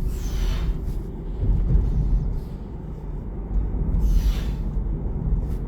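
Vehicle road noise: a steady low rumble with two brief swishes, one at the start and one about four seconds in, like traffic passing.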